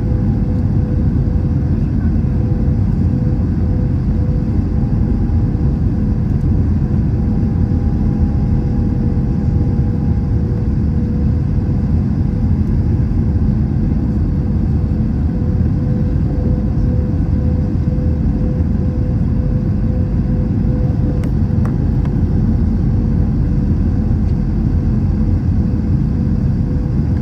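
Airbus A321 cabin noise while taxiing: a steady low rumble from the idling jet engines and the rolling airframe, with a steady hum tone.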